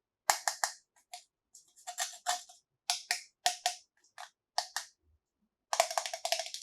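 Small hard plastic toy pieces clicking and clacking against each other in short irregular groups, with a quick run of rapid clicks near the end.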